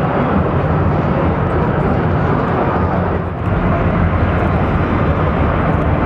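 Loud, steady din of a crowded exhibition hall, many voices blended into one continuous noise, dipping briefly about halfway through.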